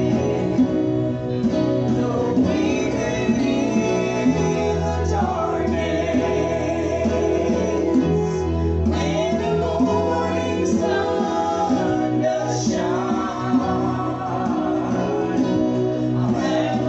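A gospel group singing with guitar accompaniment and a steady bass line underneath.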